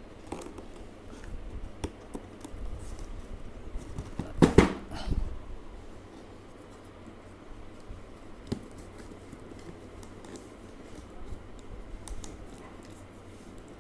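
A cardboard package being opened and its contents handled: light scratching and rustling, with a loud short tear or knock about four and a half seconds in and a smaller one just after.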